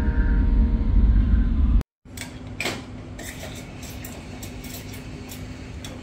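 Loud low rumble of a moving train heard from inside the carriage, with a few steady whining tones, cut off abruptly just before two seconds in. It gives way to quieter café counter sounds: light clinks and clatter of cups and dishes over a steady low hum.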